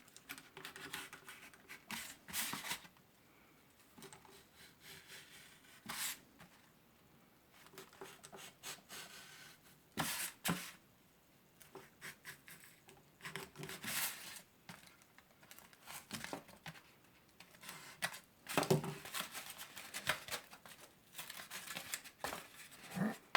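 A sharp knife slicing through a styrofoam tray, in short strokes that come and go with pauses in between.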